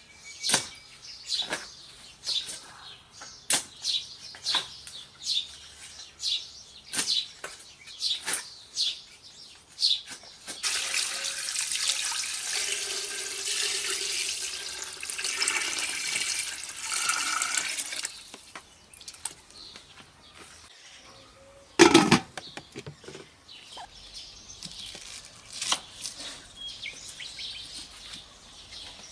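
A run of sharp knocks, roughly one or two a second, then water pouring steadily for about seven seconds, then one loud knock and a few fainter clicks.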